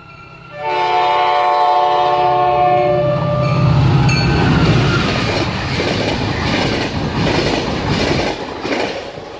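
MBTA diesel commuter locomotive sounding its multi-chime horn in one long blast of about two and a half seconds, starting about half a second in. The locomotive then passes close by, its engine loudest at about four seconds, followed by the bilevel coaches with wheels clacking over the rail joints.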